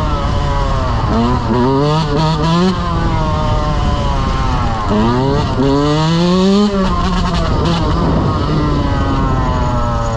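Dirt bike engine revving up and down over and over, with one long climb in pitch about five to six and a half seconds in, then easing off and running lower.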